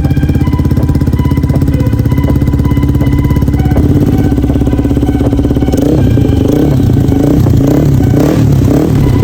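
Yamaha R6 inline-four engine running through an Akrapovic exhaust, at first a steady, fast-pulsing note. About six seconds in it turns louder and rougher, surging a few times a second.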